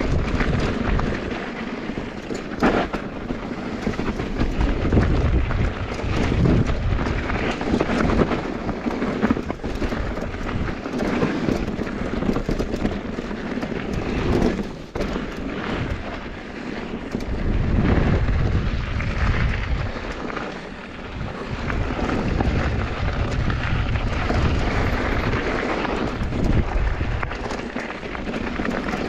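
Mountain bike descending a bike-park trail: wind buffeting the microphone over the rumble of tyres on rough dirt and gravel, with scattered knocks from the bike over bumps.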